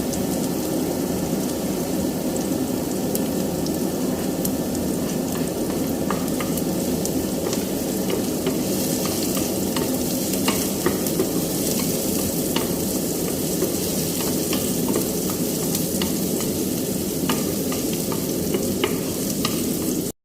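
Marinated chicken pieces frying in oil with garlic and onion in a pan: a steady sizzle with scattered short clicks and pops.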